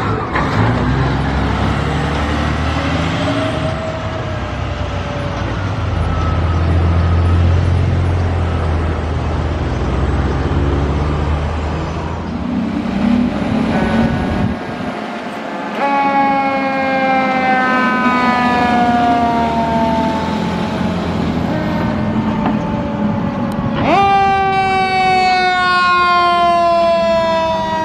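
Fire trucks responding: a low, loud truck engine drone with a faint siren, then a siren with many overtones whose pitch slides slowly down, jumps sharply back up about three-quarters of the way through, and slides down again.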